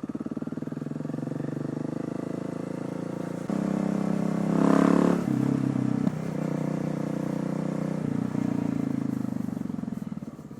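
Single-cylinder supermoto motorcycle engine running under way, pulsing steadily. About three and a half seconds in the throttle opens and the engine gets louder, peaking near five seconds, then drops back in steps, and it eases off near the end.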